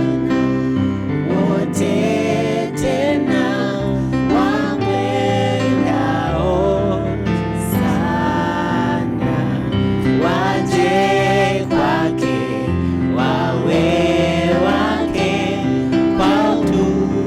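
Gospel song: voices singing with vibrato over sustained keyboard chords.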